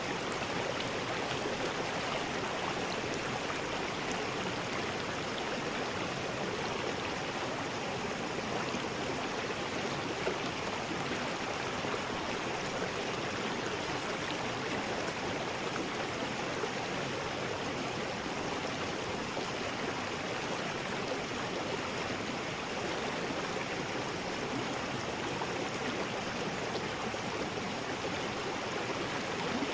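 River rapids: water rushing steadily over rocks in a continuous, even roar with no breaks.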